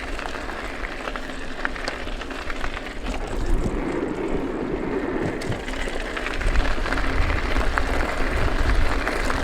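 Strong wind buffeting the action camera's microphone while cycling downhill, a steady rushing noise whose low rumble grows heavier about two-thirds of the way through.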